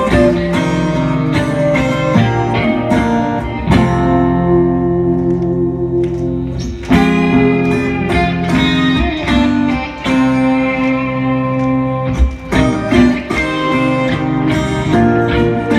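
Instrumental guitar music: a guitar plays a melody of held notes and quicker picked passages, with a brief drop in loudness about ten seconds in.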